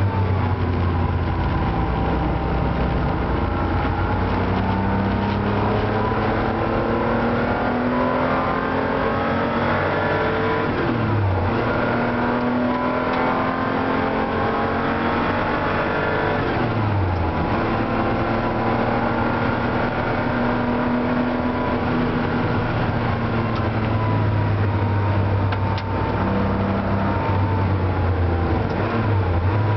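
Porsche 911 SC's air-cooled flat-six heard from inside the cabin at speed on a circuit, the engine note climbing through the revs and dropping sharply twice at gear changes, about eleven and seventeen seconds in.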